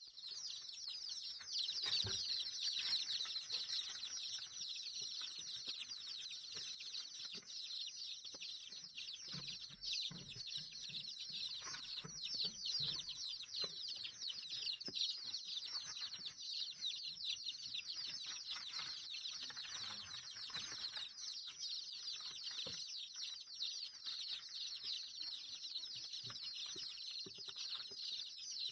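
Many small birds peeping and chirping at once: a dense, unbroken chorus of quick, high, downward-sliding notes, with a few faint knocks now and then.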